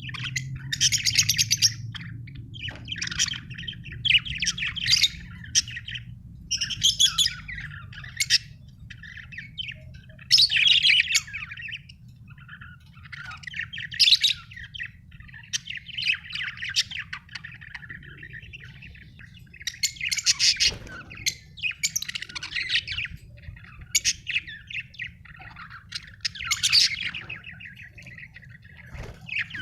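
Budgerigars (budgies) chirping and warbling in short, busy bouts every second or two, over a faint low steady hum.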